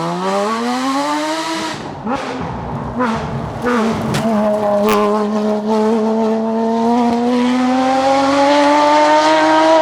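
Porsche Cayman GT4's naturally aspirated 3.8-litre flat-six at full throttle. The revs climb, then break off about two seconds in for a lift and gear change. From about four seconds in, the engine pulls again with a long, steady rise in revs.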